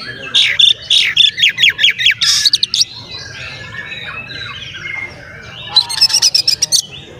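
Oriental magpie-robin (kacer) singing vigorously: a fast run of loud, sharp, repeated falling notes for about two and a half seconds, softer warbling, then another quick burst of rapid notes near the end.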